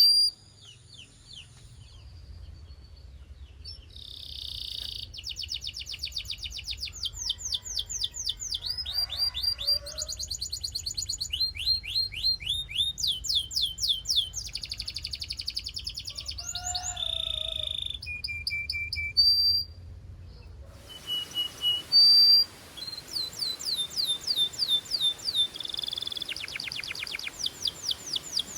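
Canary singing a long song made of rapid trills: each phrase is a fast run of repeated chirps, and one trill gives way to the next at a different pitch. About two-thirds of the way through, the low background hum stops and a steady hiss comes in under the song.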